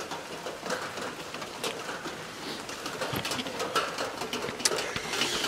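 Steady rain falling, with scattered drops ticking and dripping around a small wooden shelter.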